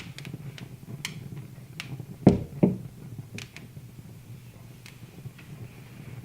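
Wood fire burning in a fireplace: scattered small crackles and snaps over a low steady rumble, with two louder pops in quick succession a little over two seconds in.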